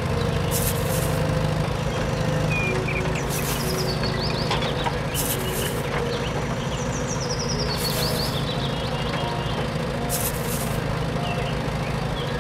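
Steady mechanical drone of a toy remote-control excavator working, with short hissing bursts every couple of seconds. Birds chirp in the background.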